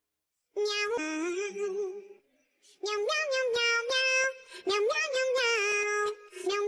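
High-pitched, synthetic-sounding singing over a beat, with held notes and drum hits. It starts about half a second in and breaks off briefly near the middle.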